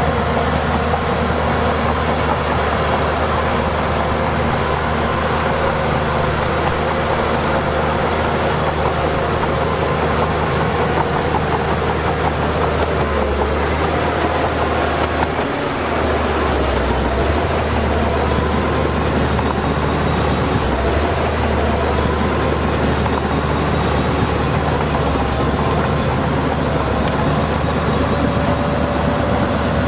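Heavy diesel engine of earthmoving machinery running steadily, with a brief drop in its low hum a little past halfway.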